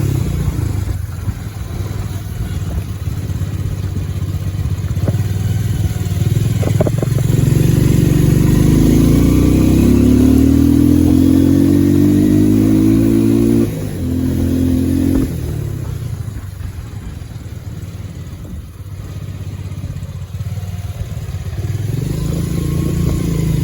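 Bajaj Pulsar 150's single-cylinder four-stroke engine running under way, climbing in pitch as the bike accelerates, dropping suddenly at a gear change about 14 seconds in, then easing off before picking up again near the end.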